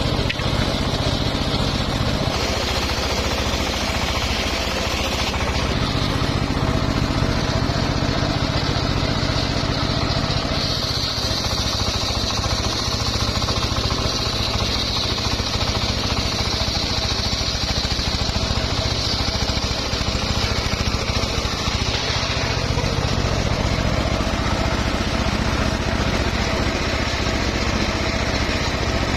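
Homemade engine-driven circular sawmill running steadily while sawing mahogany. A high whine from the blade grows stronger in stretches, about a third of the way in and again through the middle.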